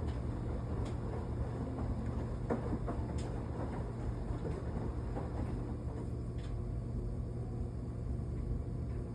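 Washing machine running: a steady low rumble as the drum turns the laundry in water, with a few light clicks.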